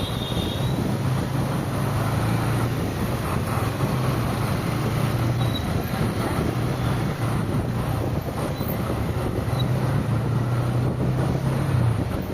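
Steady road and traffic noise from a car driving through city streets, with a constant low engine hum underneath.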